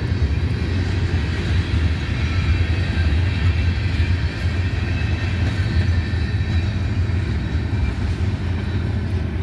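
Empty freight cars, grain hoppers and gondolas, rolling slowly past on a switching move: a steady low rumble of wheels on rail, with faint high-pitched tones above it.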